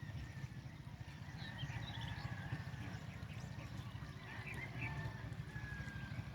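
Birds calling outdoors: short chirps and thin whistled notes, heard over a steady low rumble.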